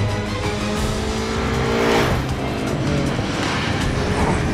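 Speeding car engines and tyre noise over a film music score, the roar swelling loudest about two seconds in.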